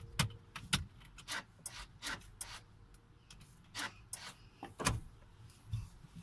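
Irregular clicks, taps and knocks as a small child fiddles with switches, buttons and fittings inside a truck cab, about a dozen in a few seconds.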